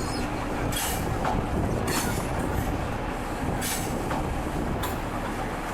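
Intercity 125 (HST) train running on the rails: a steady low rumble with short, sharp clicks about once a second, typical of wheels passing over rail joints.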